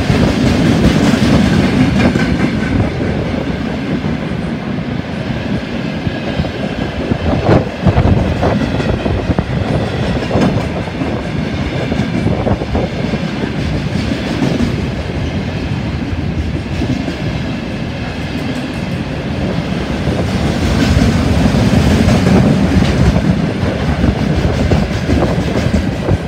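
A freight train's wagons, open gondolas and then container flatcars, rolling past close by: a steady heavy rumble of steel wheels on the rails, with scattered sharp clicks and knocks as the wheels run over the rail joints.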